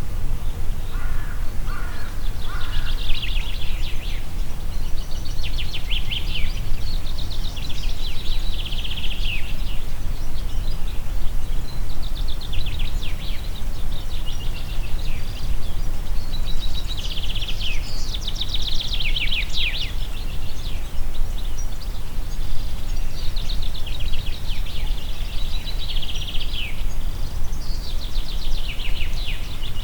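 Wind blowing steadily as a low rumble, with birds singing short, high, rapidly trilled phrases every few seconds above it.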